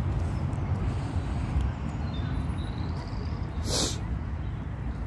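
Steady low rumble with a brief hiss about three and a half seconds in.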